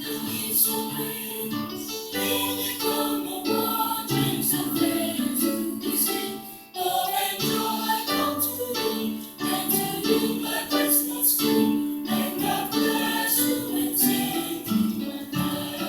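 School chorus singing with instrumental accompaniment, with a brief drop in sound about seven seconds in.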